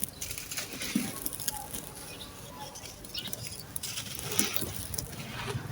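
Dry sand-cement crumbling and crunching onto a floor: irregular gritty crackles, growing denser about four seconds in.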